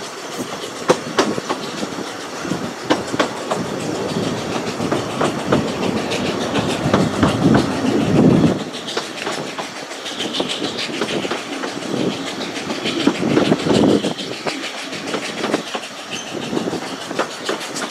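Narrow-gauge railway carriage running along the line, its wheels clicking sharply and irregularly over the rail joints above a steady rumble. The rumble swells louder twice, about halfway through and again a little later.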